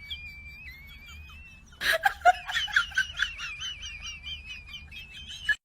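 A bird singing a continuous high, wavering warble. A short loud noisy burst, like a knock or rustle, cuts in about two seconds in.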